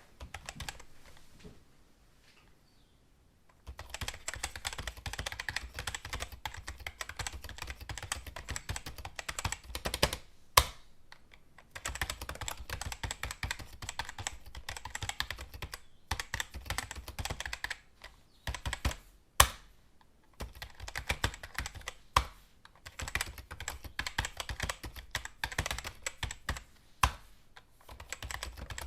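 Typing on a computer keyboard, recorded up close: after a few quiet seconds, a fast, dense run of key clicks, broken by short pauses and a few sharper, louder single keystrokes.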